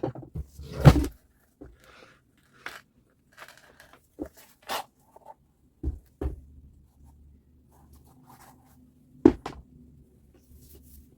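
Irregular clicks, knocks and short scrapes of tool parts being handled, with the loudest knock about a second in and another sharp one near the end.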